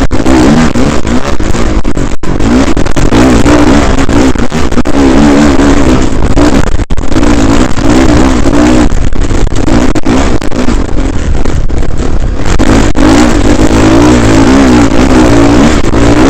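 Dirt bike engine, close and loud on a helmet-mounted camera, its pitch rising and falling over and over as the throttle is worked while riding. The sound cuts out for an instant twice.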